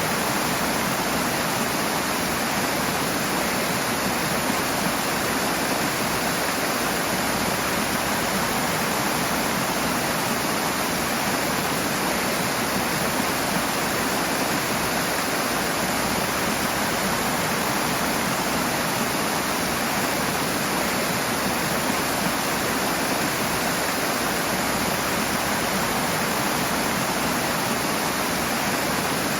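Rushing water: a steady, unbroken roar of fast-flowing stream or cascade.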